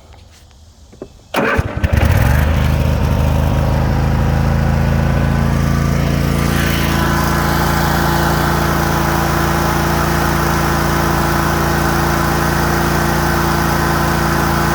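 Kohler Pro 25 V-twin engine on a Cub Cadet RZT zero-turn mower being cranked by its starter and catching after about a second and a half, then running steadily with no bad noises.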